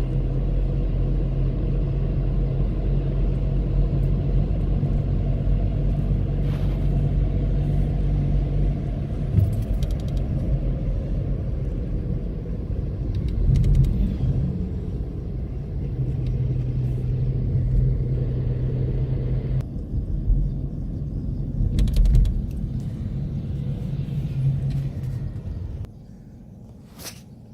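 A car driving, with a steady low engine hum and road rumble. The sound drops away sharply near the end, followed by a single sharp click.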